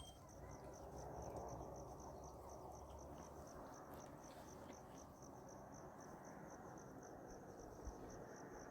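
Faint crickets chirping in a steady, evenly pulsed rhythm over a low background hiss.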